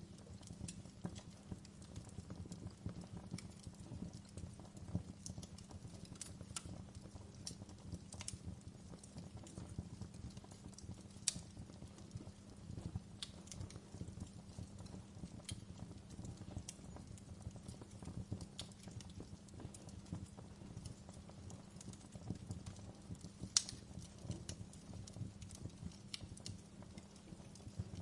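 Wood fire crackling in a stone fireplace: a steady low rumble of burning logs under irregular sharp pops and crackles, a few of them louder snaps.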